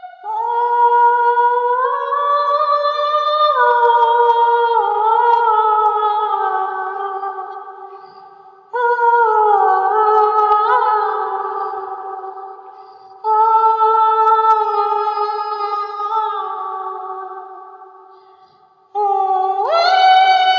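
Wordless singing in long, high held notes that slide from pitch to pitch, in four phrases that each begin suddenly and fade away.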